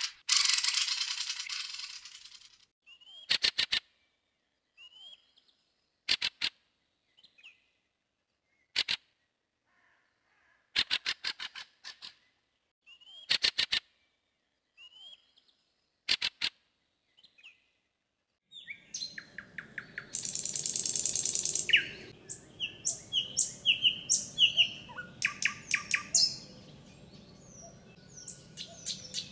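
Wild forest birds calling. It starts with a harsh hiss, then short rattling bursts with thin chirps about every two to three seconds. From about two-thirds of the way in, several birds chirp and call together over a low background rumble.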